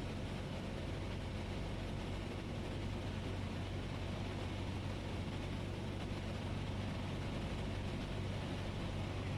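Cessna 172S's four-cylinder Lycoming engine running steadily in flight, heard from inside the cockpit as an even drone with a low hum.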